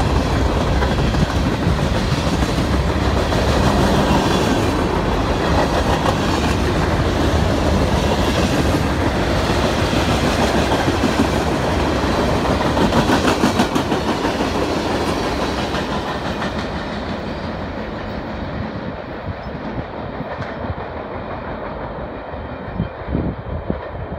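CSX freight train cars (boxcars, tank cars and a covered hopper) rolling past close by, the steel wheels clicking rhythmically over the rail joints. The noise fades steadily over the last third as the end of the train passes and recedes.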